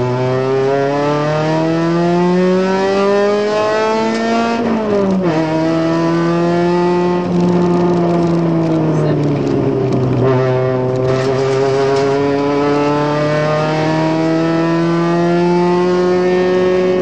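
Ford Focus rally car's engine heard from inside the cabin, pulling up through the revs for about five seconds, then dropping sharply in pitch. It holds and eases down, dips briefly about ten seconds in, and slowly climbs again.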